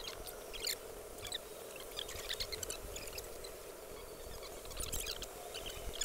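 Small woodland birds chirping: many short, high calls scattered throughout, over a faint steady background hum.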